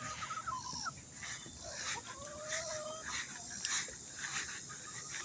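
German shepherd whining softly: a few short thin whines, then one longer drawn-out whine about two seconds in.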